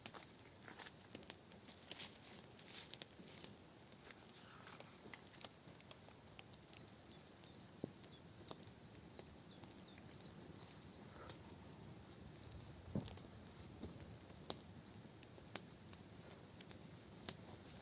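Scattered raindrops tapping irregularly on a tent over a faint hiss, with a brief run of faint high chirps about halfway through.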